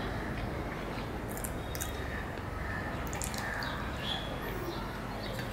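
A person chewing a mouthful of luchi, the puffed fried flatbread, with soft wet smacks and a few short mouth clicks over a steady low background noise.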